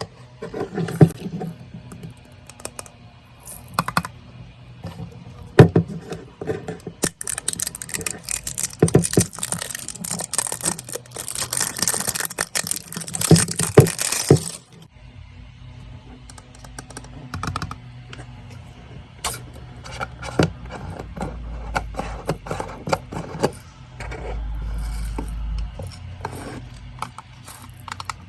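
Close-up handling of fidget toys and their packaging: scattered clicks, taps and small scrapes, with a long stretch of rustling in the middle.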